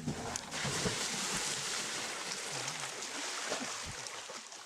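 Steady rushing and splashing of water that sets in about half a second in and cuts off suddenly.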